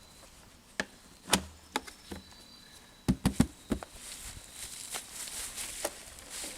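A series of sharp knocks and taps, with a quick cluster of heavier thuds about three seconds in, then a steady rustling.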